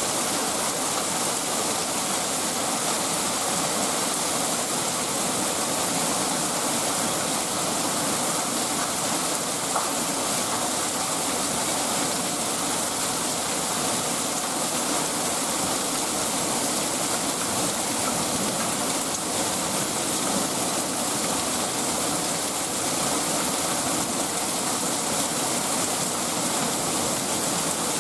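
Heavy hail of marble-sized hailstones pelting down steadily in a dense, unbroken rush.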